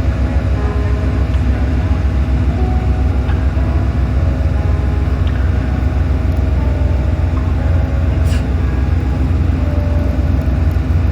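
Steady low rumble of a small passenger shuttle boat under way, heard on board, with water and wind noise over it and a brief click about eight seconds in.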